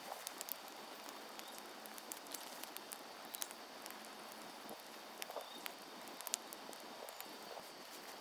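Wood fire crackling, with irregular sharp pops and snaps over a low, steady hiss.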